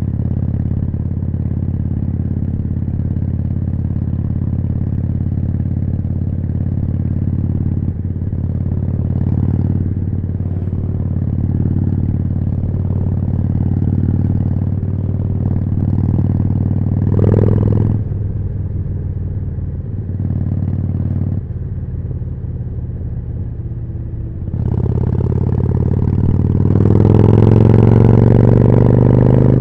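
Harley-Davidson Forty-Eight's air-cooled 1200 cc V-twin running through a Jekill & Hyde valve-controlled exhaust. It runs steadily at low revs, blips the throttle briefly a little past halfway, then revs up with a rising pitch over the last few seconds.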